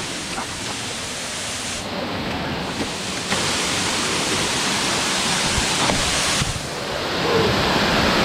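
Steady rush of a waterfall, an even roar of falling water that grows louder about three seconds in and again near the end.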